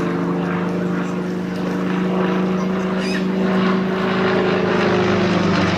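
Propeller aircraft flying by, its engine drone steady and then dropping a little in pitch near the end as it passes.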